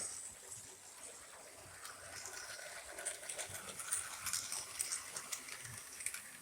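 HO-scale model train running along the track, its motor and wheels giving a steady hum with a scatter of sharp light clicks and ticks from about halfway in.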